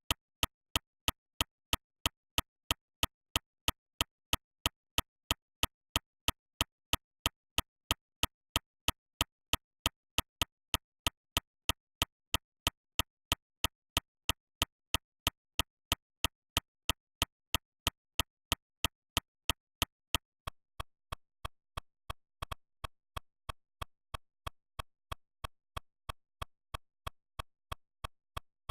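Sharp, evenly spaced ticks, about three a second, with silence between them, like a metronome or click track; they become quieter about two-thirds of the way through.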